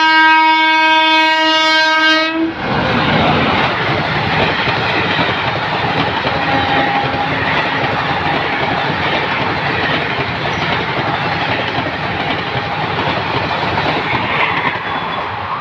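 A passenger train passing close at full speed: the locomotive's horn sounds one long steady note that cuts off about two and a half seconds in, then the coaches go by with the continuous noise of wheels on the rails.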